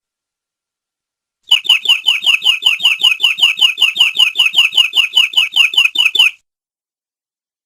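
Canary singing a rapid, evenly repeated note, about five or six a second, each note falling in pitch. It starts about a second and a half in and stops abruptly after about five seconds.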